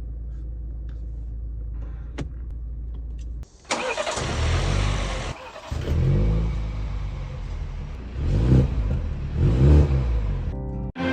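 BMW Z4 engine starting with a loud flare about a third of the way in, after a steady low hum. It is then revved in three blips that rise and fall.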